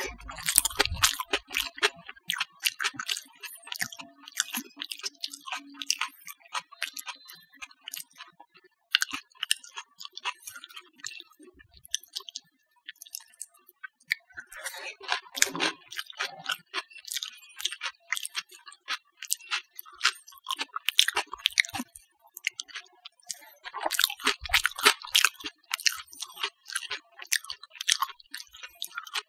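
Close-miked wet chewing and lip-smacking of soft food (mashed potato and omelet with rice): a dense run of small clicking mouth sounds. The sounds thicken into busier bursts just after the start, about halfway through and near the end.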